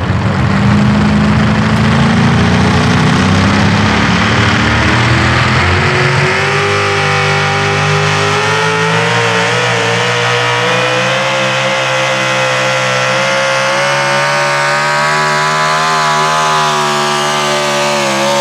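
A pulling truck's engine at full throttle under load during a pull. Its pitch climbs over the first several seconds, then holds high and nearly steady, edging up slowly.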